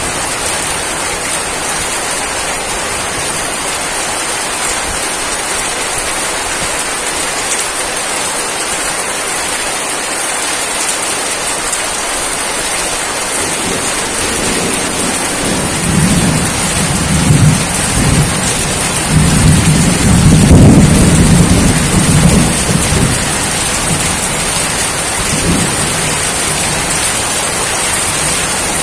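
Steady rain hiss, with a low rumble of thunder that builds about halfway through, is loudest around two-thirds in, and dies away near the end.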